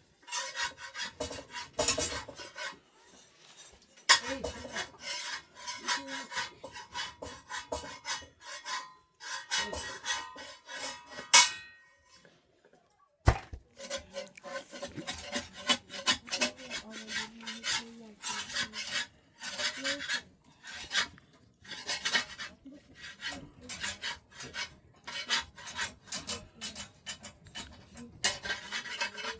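Repeated rasping, scraping strokes in quick runs with short pauses; a sharp knock about 13 seconds in.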